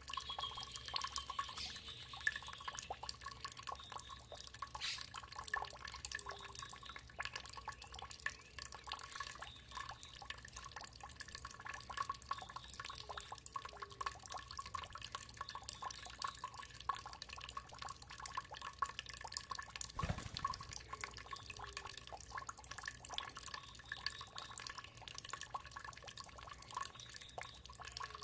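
Water dripping and trickling in a rapid, irregular patter of small drops. A faint bird call falls in pitch in the first couple of seconds.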